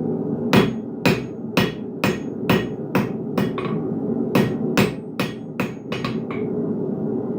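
Blacksmith's hammer striking hot iron on an anvil while forging a hook: a run of about seven blows at roughly two a second, a pause of about a second, then about six more, the last ones lighter. A steady low rumble runs underneath.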